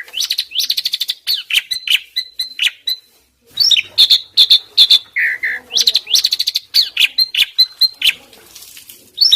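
Asian pied starling (jalak suren) singing a rapid, varied run of whistles, chatters and sharp clicks, with a brief pause about three seconds in.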